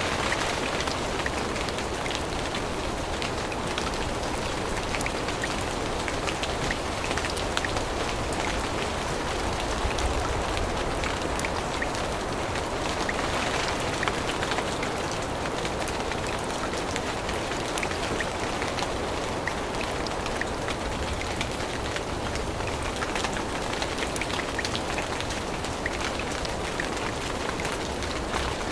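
Steady rain falling in a forest, a continuous hiss with many small drop ticks on leaves.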